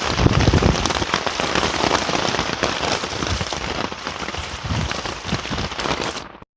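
Heavy rain pattering densely on surfaces close to the microphone, with low thumps on the microphone about a second in and near five seconds. The sound fades out abruptly just before the end.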